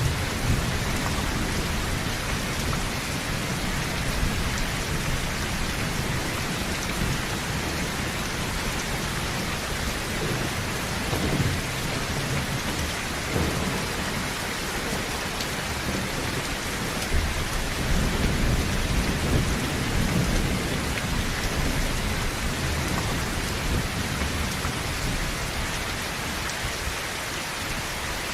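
Heavy rain drumming steadily on a tin roof, with low thunder rumbling underneath that swells several times, most strongly near the start and in the second half.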